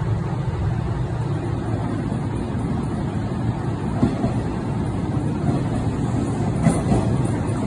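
Green electric commuter train approaching along the platform track: a steady low rumble, with a few faint clicks in the second half.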